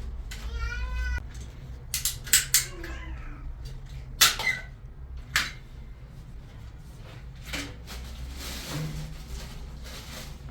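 A cat meowing once, a single wavering call about a second long, followed by several sharp knocks and clacks.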